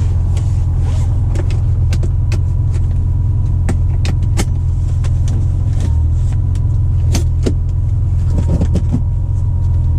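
Acura NSX's twin-turbocharged V6 idling steadily, heard from inside the cabin, with a faint steady high tone over it. Scattered short clicks are heard throughout.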